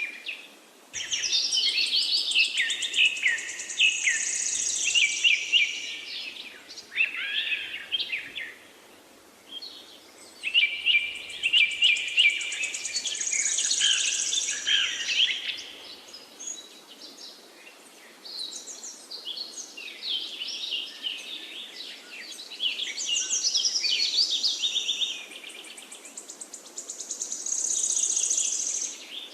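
Several forest birds singing in overlapping chirping phrases that come in bursts with short lulls between them. A high, buzzy trill returns three times.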